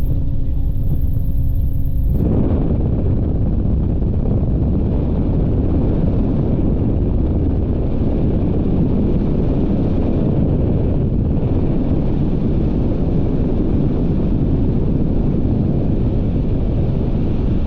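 Helicopter in flight, heard on board: a steady engine-and-rotor hum, which about two seconds in gives way abruptly to a heavy, even rumble of wind buffeting the microphone.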